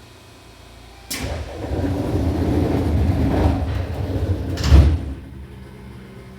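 A Seibu New 2000 series train's sliding passenger doors closing before departure. A sudden rush of noise about a second in runs for nearly four seconds and ends in a loud thump as the doors shut.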